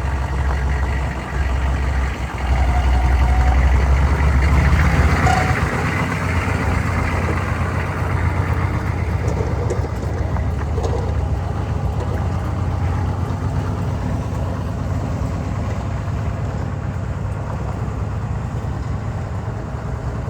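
Chevy 2500 pickup's engine running steadily, swelling louder for a few seconds about three seconds in, then settling back to an even run.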